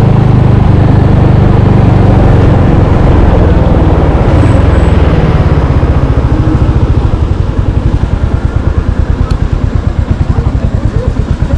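Royal Enfield Hunter 350's single-cylinder four-stroke engine running at a steady pace, then easing off about six seconds in and settling to an idle with a slow, even thump of separate firing strokes.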